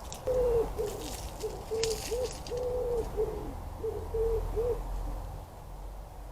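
Pigeon cooing: two repeated phrases of low, soft coos, each a longer note followed by shorter ones.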